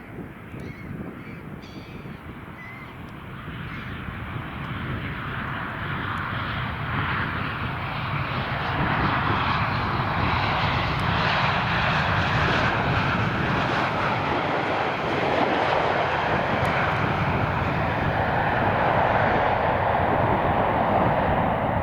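Jet aircraft engines on an arriving aircraft, a rushing roar that swells over the first several seconds and then holds loud and steady as the plane passes close by.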